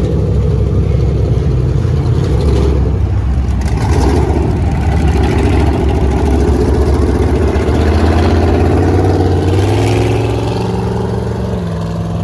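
Off-road vehicle engine running hard under load, its pitch climbing steadily for several seconds, then dropping back and running lower near the end.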